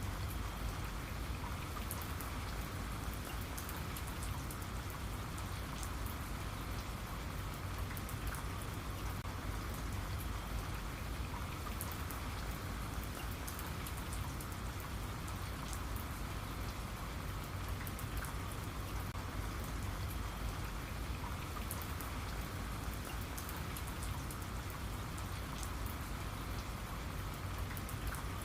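Steady rain with many fine drop ticks.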